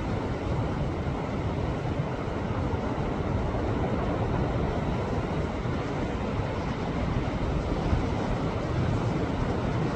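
Sea waves washing against rocks on the shore: a steady rushing surf with a deep rumble and no single standout crash.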